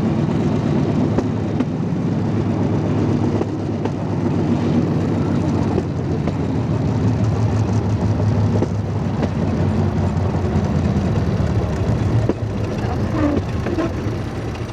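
Motor vehicle engine running steadily with a low, pulsing note, dropping slightly in level about twelve seconds in.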